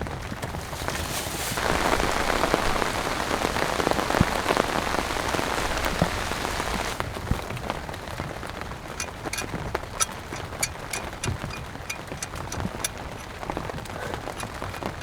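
Steady rain falling, heavier for the first few seconds, then easing about halfway through, when scattered sharp ticks stand out over the patter.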